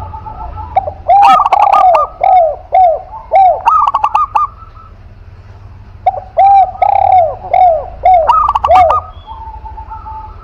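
Doves cooing loudly in two bouts of quick, repeated arching coos. The first bout starts about a second in, the second about six seconds in, with a pause between.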